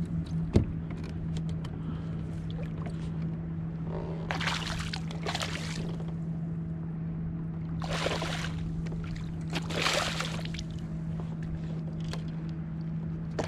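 Water splashing around a kayak in several short bursts, over a steady low hum. There is a sharp click about half a second in.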